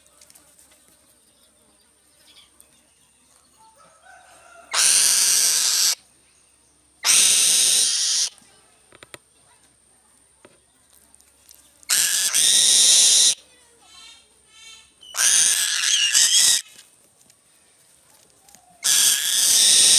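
A bird of prey giving harsh, hissing screeches, five times, each lasting a little over a second.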